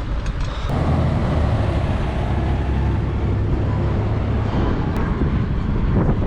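Steady low rumble of street traffic and road noise.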